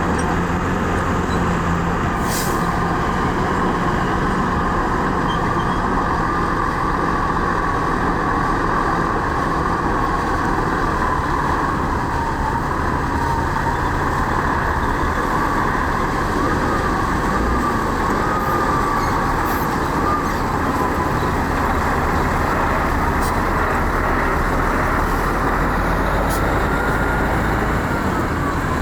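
Heavy diesel earthmoving machinery running steadily under load, with a low engine drone and a wavering high whine over it.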